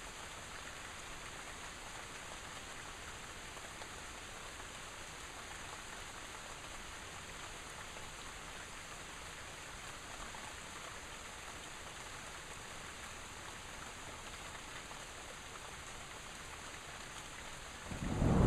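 Steady rain falling. Near the very end a loud, low rumble of thunder suddenly begins.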